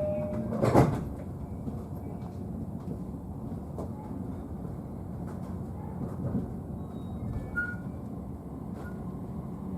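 Inside a JR East E531-series double-decker train car, a single loud thump about a second in, as the sliding doors shut, followed by the steady low rumble of the car.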